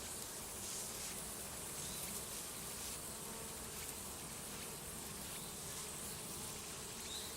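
Honeybees buzzing, a steady hum of many bees together.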